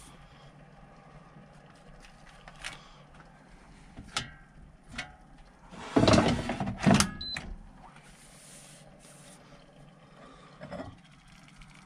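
Scattered knocks and clatter of cooking gear being handled, with a louder flurry of knocks and rattling about six to seven seconds in.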